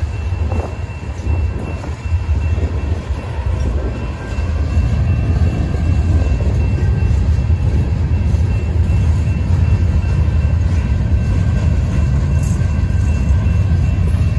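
Freight cars of a Union Pacific ballast train rolling past on the rails: a steady low rumble that grows louder about five seconds in.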